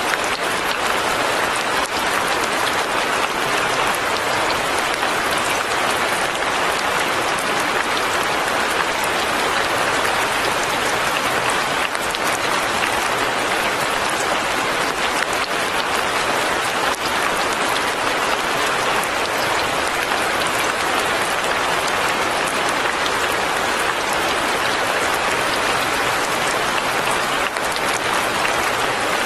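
Steady light rain pattering on leaves and a cabin, a dense, even hiss with no break.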